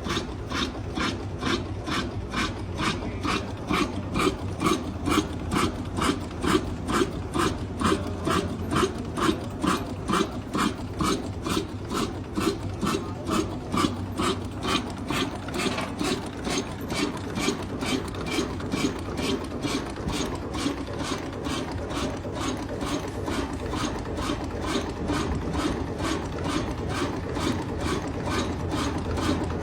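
Old diesel engine running slowly, with a regular knocking beat about twice a second that becomes less distinct about halfway through.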